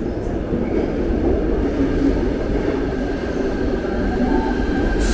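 Double-deck electric suburban train pulling into an underground station platform: a steady, loud rumble of wheels on the rails. A faint steady whine comes in about a second and a half in, and there is a short hiss right at the end.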